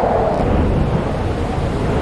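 Howling wind with a deep rumble underneath. The howl's pitch sinks and fades early, while the low rumble grows stronger.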